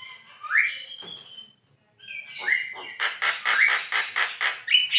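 Javan myna calling: a few rising whistled notes, then after a short pause a fast run of harsh, chattering repeated notes, about six a second.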